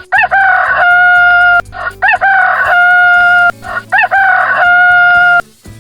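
Rooster crowing cock-a-doodle-doo three times. Each crow opens with a quick rise and fall in pitch and ends in a long held note.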